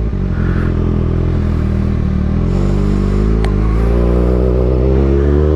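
Kawasaki ZX-6R 636 inline-four running through an Austin Racing GP1RR exhaust, holding a steady low engine note that begins to rise slowly near the end. A single sharp click sounds about three and a half seconds in.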